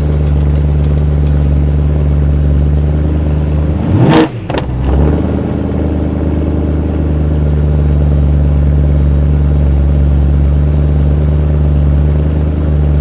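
BMW M3's V8 running at a loud fast idle just after a cold start, with one brief rise and fall in engine pitch about four seconds in. The loudness is the cold-start phase, when a rich mixture runs and air is injected into the exhaust manifold to heat the catalytic converters.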